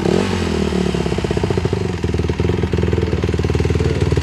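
Honda CRF150R dirt bike's single-cylinder four-stroke engine running steadily with a rapid, even firing beat, dipping briefly in pitch just after the start.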